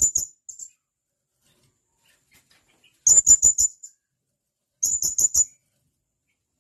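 Blue-crowned hanging parrot (serindit) giving sharp, high calls in quick bursts of about four notes: the end of one burst at the start, a single short note about half a second in, then two more bursts about three and five seconds in.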